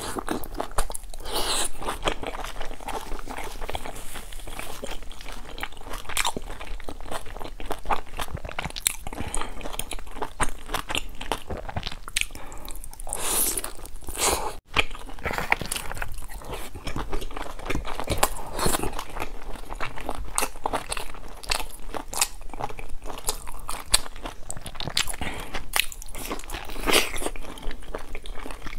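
Close-up eating sounds: biting into and chewing large pan-fried stuffed buns, with crunchy, crackly, wet chewing continuing throughout.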